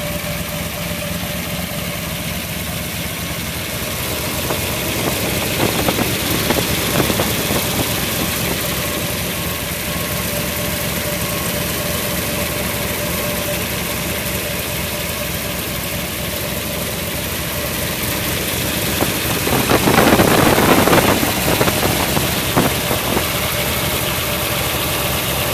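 1969 Corvette's 427 cubic-inch, 400 hp Tri-Power big-block V8 with side exhaust idling steadily. There is a brief louder rush of noise about three-quarters of the way through.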